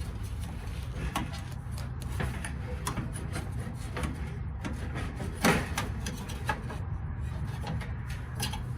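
Dryer parts being handled during reassembly: scattered light clicks and taps, with one louder knock about five and a half seconds in, over a steady low hum.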